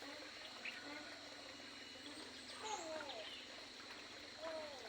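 Birds in an aviary calling: a few short calls that curve down in pitch, plus brief higher chirps, over a steady high-pitched hum.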